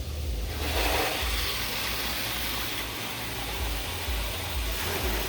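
High-pressure water jets of a touchless car wash spraying against the truck, heard from inside the cabin: a loud hiss that starts about half a second in and eases off near the end, over a steady low rumble.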